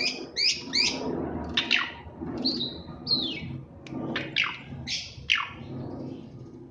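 Pied starling (jalak suren) singing. A quick run of sharp chirps and down-sweeping whistles, with a couple of bending whistles about halfway, thinning to a few single whistle notes that stop about five and a half seconds in.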